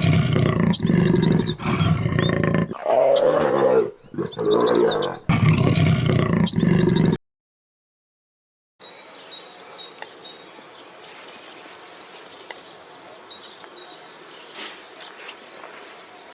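A large animal roaring in loud, repeated calls for about seven seconds, with high bird chirps mixed in. After a short break comes a quieter outdoor background with faint bird chirps.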